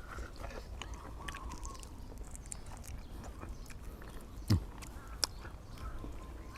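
A person chewing and smacking on grilled chicken, with many small wet clicks. There is one brief louder sound falling in pitch about four and a half seconds in.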